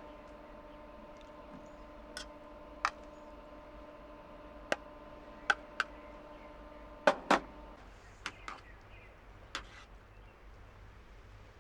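A series of sharp clicks and knocks at irregular intervals, the loudest two in quick succession about seven seconds in. Under them a steady hum of several tones cuts off suddenly just after those two knocks.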